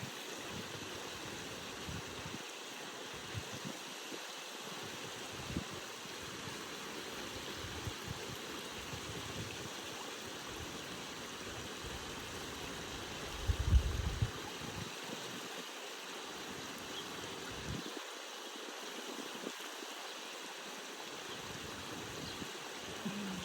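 Running water, a steady even rush like a stream, with one brief low thump about halfway through.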